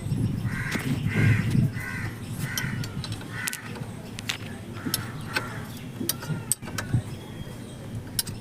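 Crows cawing over and over, with sharp metal clicks as a spanner works a nut.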